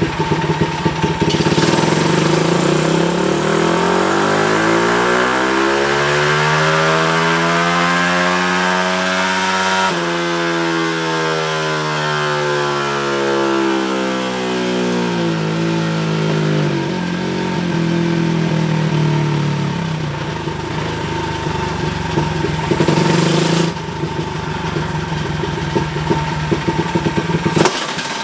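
Modified 225cc single-cylinder four-stroke pitbike engine (Daytona 190-based, stroker crank) making a dyno pull. The revs climb steadily for about eight seconds to the top, then fall away as the throttle closes. It then runs unevenly with a couple of short throttle blips near the end.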